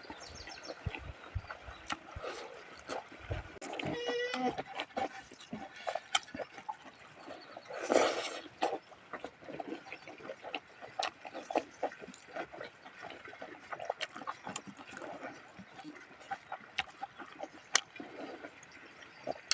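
Hungry pigs grunting and squealing on and off, with a louder squeal about eight seconds in, over scattered small clicks of a spoon and eating.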